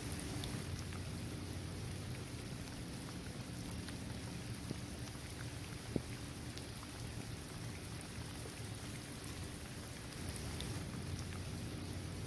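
Steady rain falling on a basketball court, trees and grass, with scattered single drops tapping through it and one sharper tap about halfway through.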